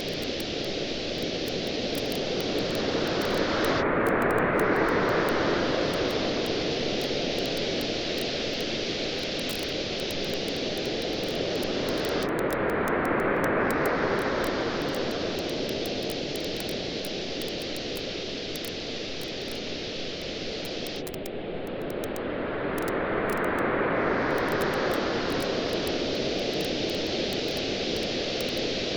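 Waves washing in on a shore in slow swells, three of them about nine seconds apart, over a steady hiss of surf, with the faint crackle and pop of a wood campfire throughout.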